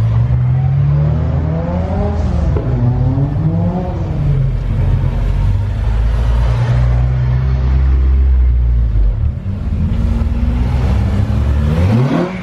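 Car engine revving: the revs rise and fall twice in the first few seconds, settle to a steady run, then climb sharply near the end.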